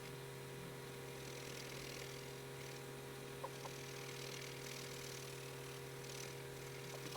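Faint pencil strokes scratching on paper while colouring, in soft passes that come and go, over a steady electrical hum, with two small clicks about halfway through.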